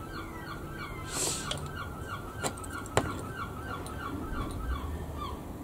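A bird calling in a fast, even series of chirps, about four or five a second, that stops near the end. A short hiss comes about a second in, and two sharp clicks follow, the second one louder.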